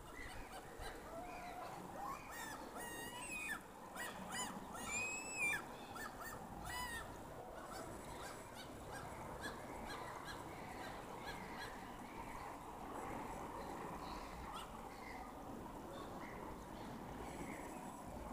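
Birds calling outdoors, with a cluster of short, wavering calls a few seconds in, over a steady background hum.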